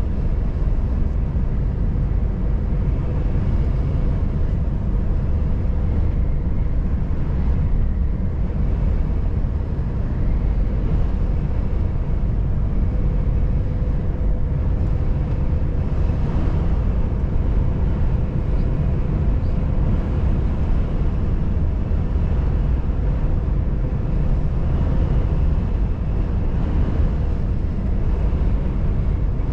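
Volvo FH540 truck driving at steady speed: an even, low engine and road rumble, with a faint steady whine above it.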